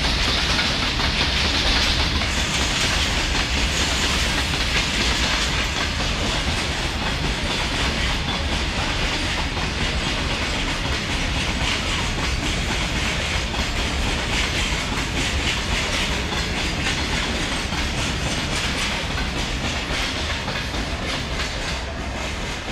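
Long freight train of steel wagons running past at speed, a steady rush of wheel-and-rail noise with a fast clatter of wheels over rail joints. It eases slightly near the end as the brake van goes by.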